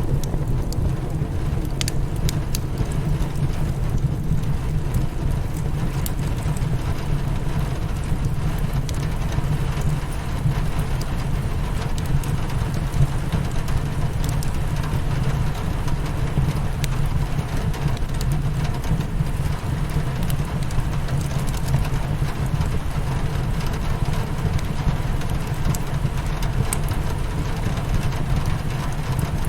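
Rain on a windowpane and a crackling wood fire, with scattered sharp crackles over a steady low rumble.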